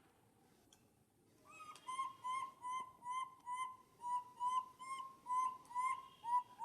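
A run of about a dozen short whistled animal calls, all the same pitch and evenly spaced at roughly two and a half a second. They start about a second and a half in, after near quiet.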